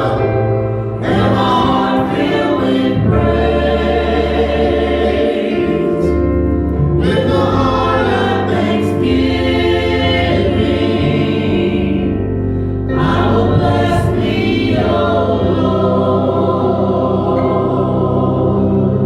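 Gospel choir singing in phrases of held notes, with short breaths between them, over a steady low accompaniment.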